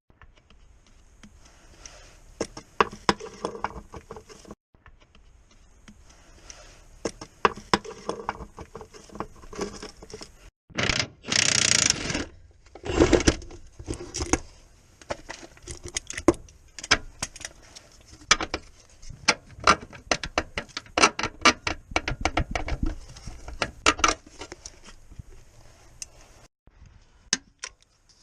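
Hand tools working on a car: metal clinks and knocks, with runs of fast, evenly spaced ratchet-like clicking. About a dozen seconds in comes a short, loud hiss.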